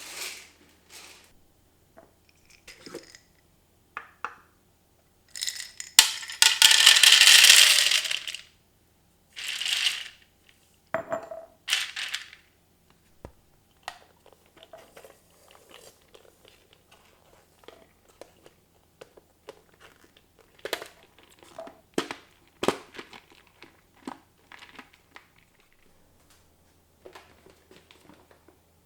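Plastic packaging and containers being handled: crinkling, clicks, knocks and light clinks, with one long, loud noisy rustle about six seconds in.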